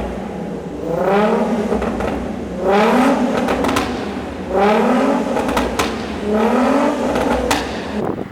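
Infiniti G35's 3.5-litre V6 through a Motordyne Shockwave exhaust, revved four times, each rev rising and then dropping back to idle.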